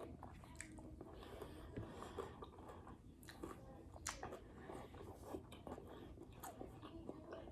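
A person chewing and biting food close to the microphone: faint, irregular wet clicks and smacks of the mouth.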